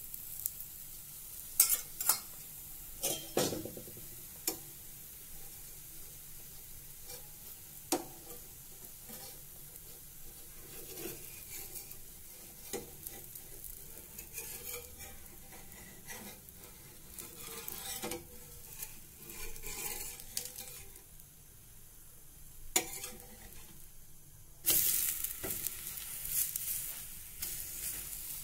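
Besan chilla frying on a tava, the oil sizzling steadily, with a metal spoon and spatula clinking against the pan several times in the first few seconds and again now and then. About 25 seconds in the sizzle turns suddenly loud as the chilla is flipped onto its uncooked side.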